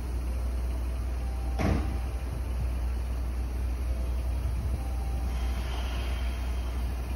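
Express train at a platform running with a steady low rumble as it starts to pull out, with one short sharp burst of noise about a second and a half in.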